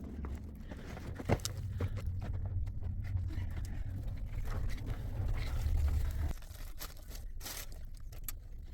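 Low rumbling noise, easing somewhat about six seconds in, with scattered crunches and clicks, a sharp one about a second in and a cluster near the end.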